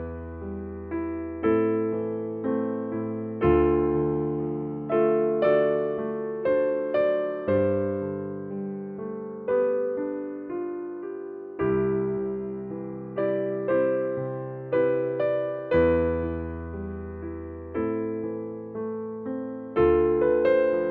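Gentle background music on electric piano: slow, soft chords that change every couple of seconds over a held bass note.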